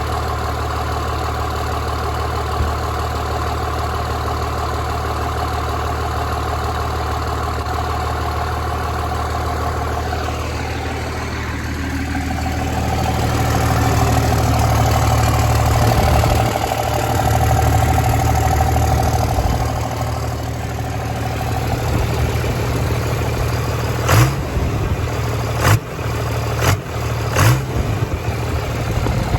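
Turbocharged truck engine running at idle, growing louder for several seconds in the middle as its speed changes, with four sharp knocks near the end.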